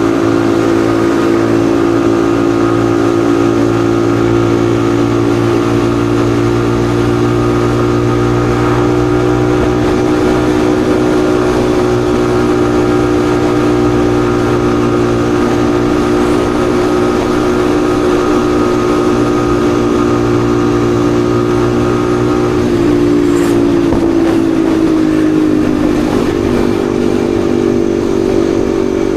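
Yamaha XSR155's single-cylinder engine running at a steady pitch while riding. About two-thirds of the way through, its pitch falls, then holds steady again.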